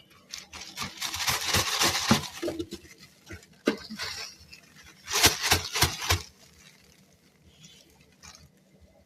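Crunching of fresh freezer frost, in two dense crackly bursts of many small clicks about four seconds apart, with a shorter crunch between them.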